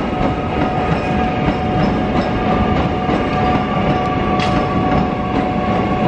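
Keio Line electric commuter train rolling slowly across the pointwork, its wheels clicking over rail joints and switches, with a steady high whine held throughout.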